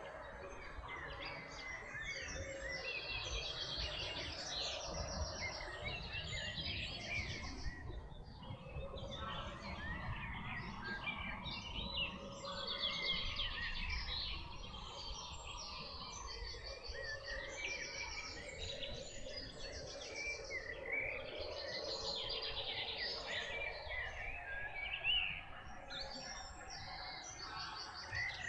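A chorus of songbirds, several singing at once with overlapping chirps and rapid trills that keep going without a break.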